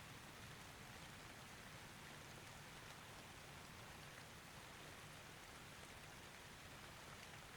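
Faint, steady rain: an even hiss of falling rain with no thunder.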